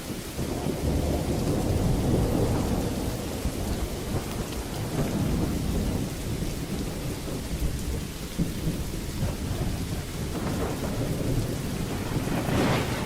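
Thunder rumbling low and long under steady rain, the rumble swelling in the first few seconds and fading after about eight. Near the end a louder hiss of rain rises.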